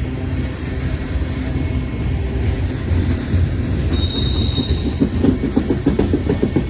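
Train rolling past with a steady low rumble and wheels clacking rapidly over the rails toward the end. A brief high wheel squeal comes about four seconds in.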